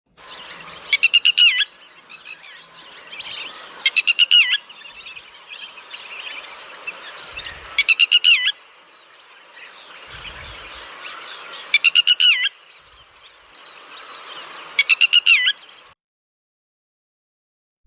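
Bird calls: five loud, short, rattling calls a few seconds apart over a continuous background of chirping, cutting off abruptly near the end.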